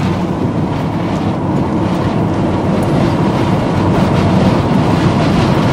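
Steady rush of wind and road noise from a moving car with a window open, growing slightly louder toward the end.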